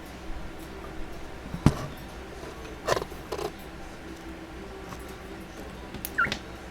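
Cockatiels moving about on their cages: a sharp knock about a second and a half in, two short scratchy sounds around three seconds, and one short rising chirp near the end.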